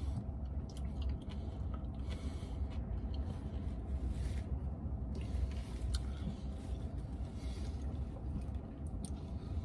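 A man chewing a mouthful of burger with his mouth closed: soft, irregular wet chewing over a steady low rumble.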